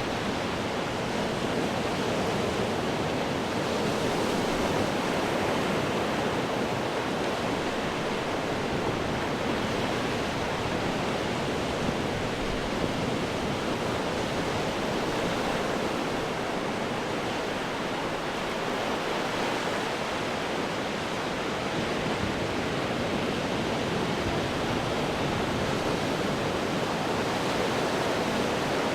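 Ocean surf breaking on rocks: a steady rush of water that swells and eases only slightly, with no separate crashes standing out.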